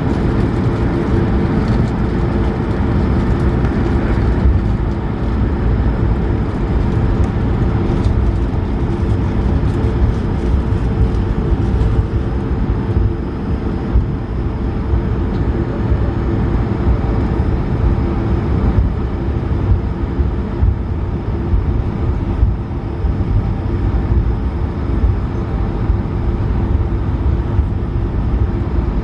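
Cabin noise inside an Airbus A220-300 with its Pratt & Whitney PW1500G geared turbofans running: a steady, heavy rumble with a constant low hum.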